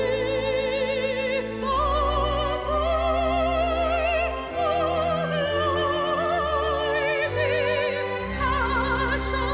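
A solo singer in operatic style holds long notes with wide vibrato, reaching high notes, over an orchestral accompaniment of sustained chords.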